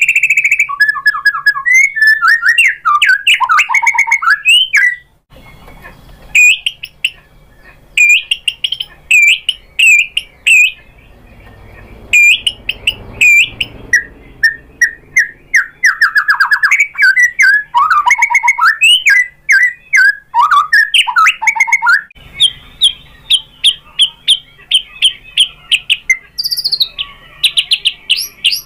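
White-rumped shama (murai batu) singing loud, varied phrases of whistles and slurred notes broken by fast chirping runs, with short lulls about five and twelve seconds in and a quick string of repeated notes near the end.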